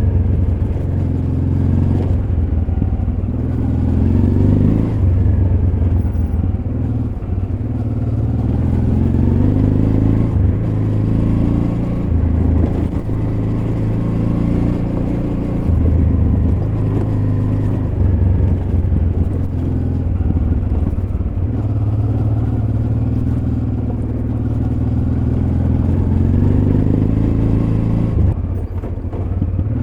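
Honda Transalp XL600V V-twin engine running under way on a dirt road, its revs rising and falling repeatedly as the throttle is opened and closed, easing off briefly near the end.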